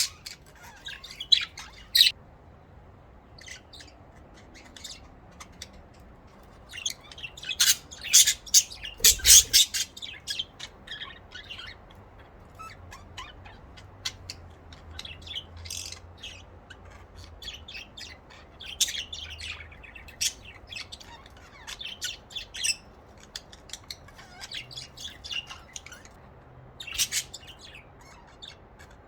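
Budgerigars chirping and chattering in short spells of quick, high calls, busiest about eight to ten seconds in.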